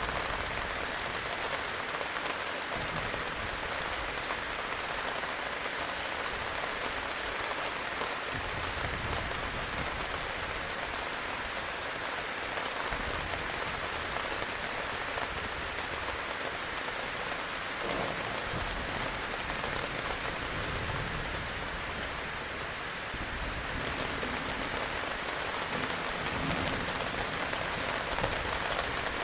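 Heavy rain falling steadily, a dense even patter, with a low rumble swelling and fading underneath a few times.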